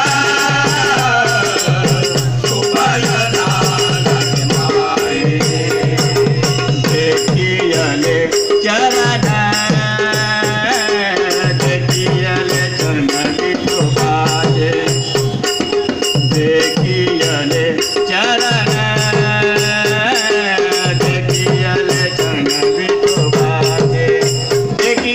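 Marathi devotional bhajan music: a group's instrumental accompaniment with a fast, steady beat of jingling percussion strokes under a sustained melody line.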